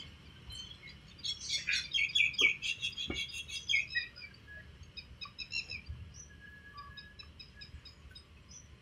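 Small birds chirping: a busy flurry of quick, high chirps over the first few seconds, then sparser, fainter calls.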